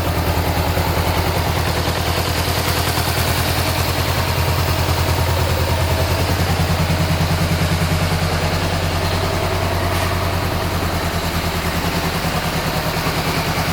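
Honda CB500F's 471 cc parallel-twin engine idling steadily.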